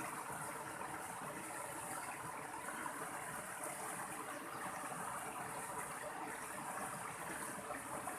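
Mountain stream flowing: a steady, even rush of running water with no breaks.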